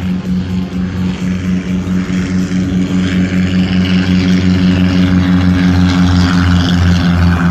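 Airplane engine droning steadily and growing slowly louder, with a rising rush of noise from about three seconds in as the plane comes closer on its approach to land.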